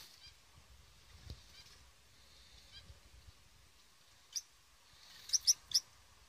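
Birds calling: faint high chirps repeat every second or so, then a loud call about four seconds in and three loud, sharp calls in quick succession near the end.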